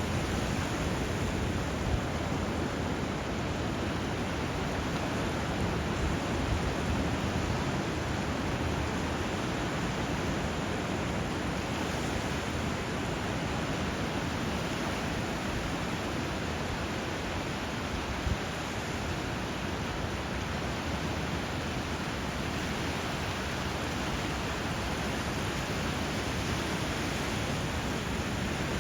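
Steady rush of flowing water, with an even level and no distinct calls or strokes.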